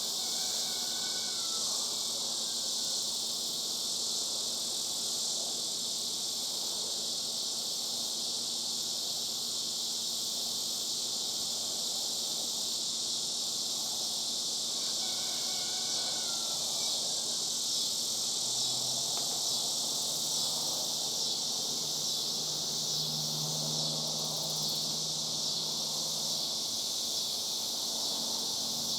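Chorus of cicadas droning steadily. A bird gives a short series of falling chirps twice, about a second in and again about fifteen seconds in, and a faint low hum joins in the second half.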